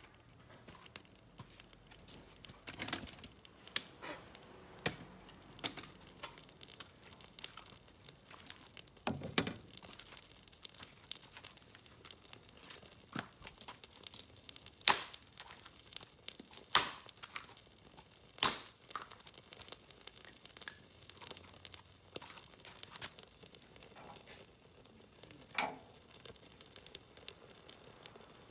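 Firewood snapping and cracking at a bonfire, with crinkling in between: irregular sharp snaps throughout, and about halfway through three loud cracks roughly a second and a half apart.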